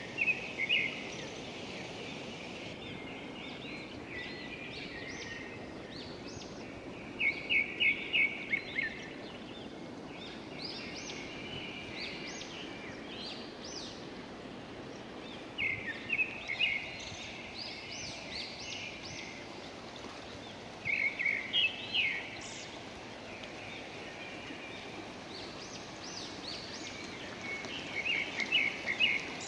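A songbird sings short bursts of rapid, repeated chirps, about five times, a few seconds apart. Under them runs the steady rush of a fast river.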